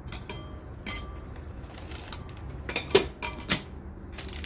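Kitchenware clinking as it is handled: a handful of separate knocks of dishes or glassware with short ringing, the loudest about three seconds in.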